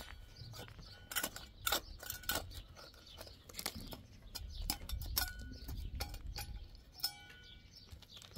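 Small birds chirping in short high notes, mixed with many sharp scattered clicks and taps over a low rumble.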